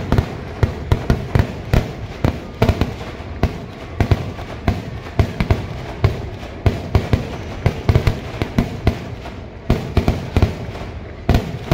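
Kerala temple-festival fireworks (vedikettu) going off in a rapid, irregular barrage of loud bangs, about three or four a second, over a continuous low rumble.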